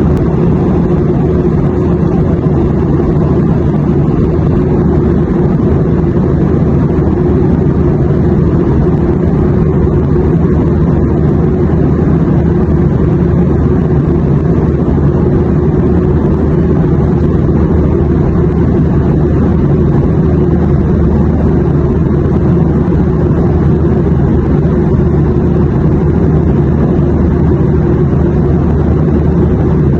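Steady airplane engine drone: a constant low rumble with a softer hiss above it, unchanging in level throughout.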